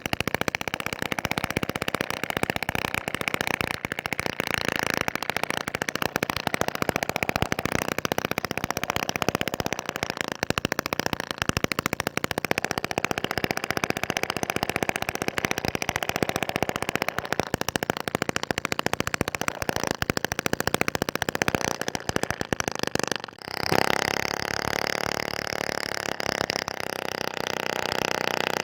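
Small homemade gasoline engine converted from an old refrigerator compressor, running with fast, even firing. It drops out for a moment near the end and comes back with a steadier note.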